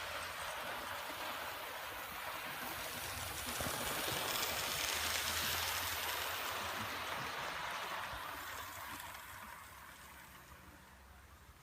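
Model train running on the garden railway track, a rushing rattle of wheels on rail that grows louder as it passes and then fades away.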